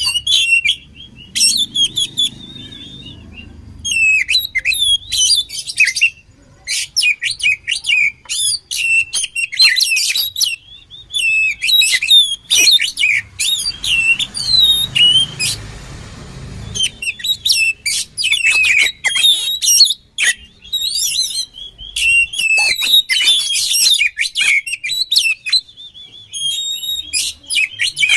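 Oriental magpie-robin (kacer) singing a fast, varied song of whistles, chirps and short trills with hardly a pause. About halfway through there is a harsh, raspy stretch lasting a few seconds.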